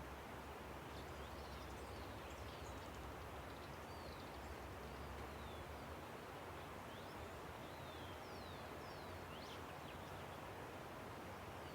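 Steady rush of a river under a scatter of many short, high bird chirps and whistles, some sliding down and some up in pitch.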